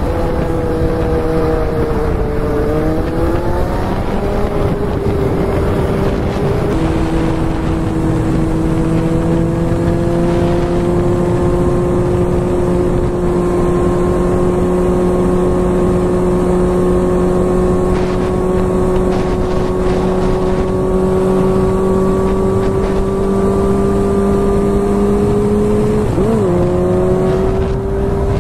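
Motorcycle engine running at a steady cruise over wind rush, its pitch dipping and recovering early on, dropping to a lower steady note after a gear change, then climbing again near the end as it accelerates.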